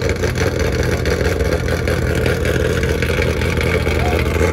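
Car engine idling steadily, freshly started after sitting dead.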